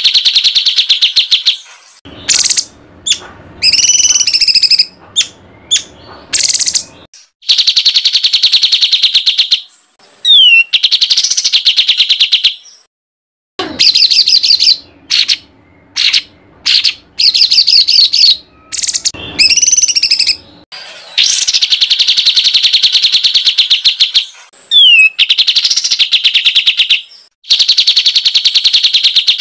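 Small songbird singing a harsh, rapid-fire song: very fast repeated notes in loud bursts of two to three seconds, with short breaks, scattered chips and a few quick downward-sliding whistles. This is the kind of 'tembakan kasar' (harsh volley) song played as a masteran tutor to teach competition songbirds.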